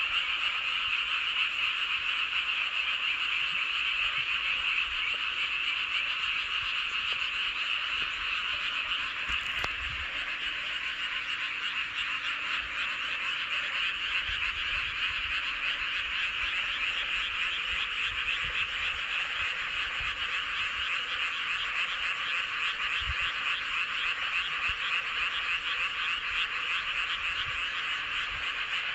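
Chorus of many paddy frogs calling at once, their overlapping, high-pitched calls merging into one steady, unbroken sound.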